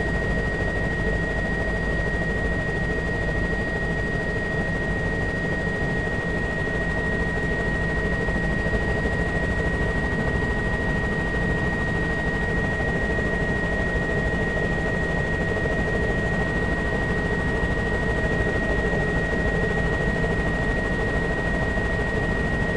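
Steady drone of a small aircraft in flight, heard from inside the cabin, with a constant high-pitched whine over it.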